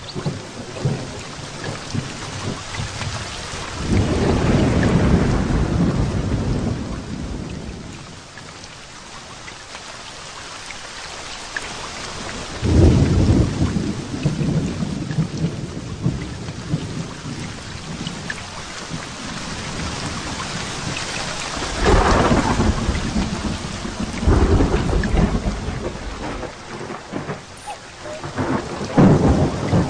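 Heavy rain falling steadily, with rolls of thunder rumbling up four times, the loudest about a third of the way in and again in the last few seconds.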